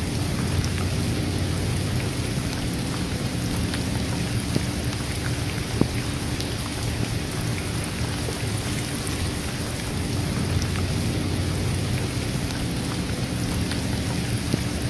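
Steady rain, with a constant low rumble underneath and scattered sharp drops or drips standing out now and then.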